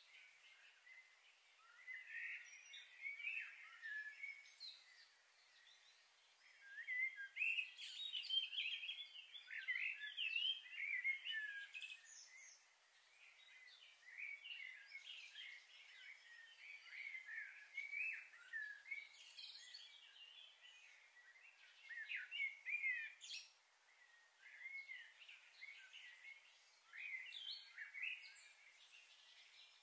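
Small birds chirping and twittering: many short high calls in irregular clusters, busiest from about a quarter of the way in to the middle.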